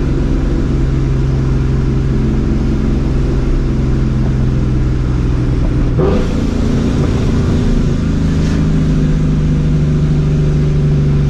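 Vortech-supercharged 4.6-litre V8 of a New Edge Mustang GT, with catless X-pipe and Borla ATAK exhaust, running steadily while cruising. About six seconds in, a shift breaks the note with a sudden pop, typical of the backfire this car makes on shifts. The engine then settles at a higher steady pitch.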